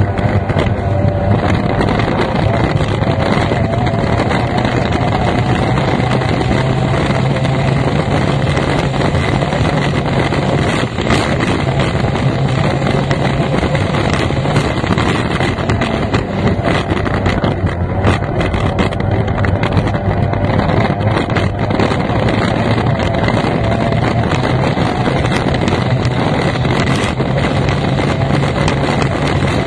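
F1 tunnel-hull racing powerboat's outboard engine running hard at speed, its pitch stepping up and down a little with the throttle, over a steady rush of wind and water.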